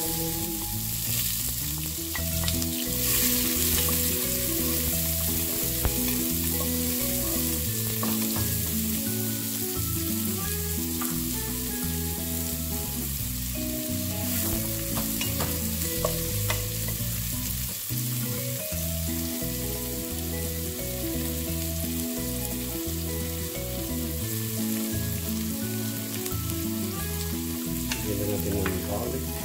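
Chopped onions sizzling in hot oil in a pot, stirred and scraped with a wooden spatula.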